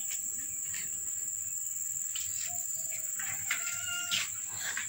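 A few short animal calls between about two and four and a half seconds in, over a steady high-pitched whine.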